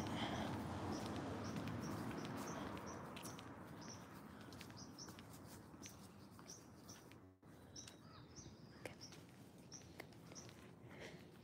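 A small bird chirping, a short high note repeated every half second or so, over faint outdoor rustle.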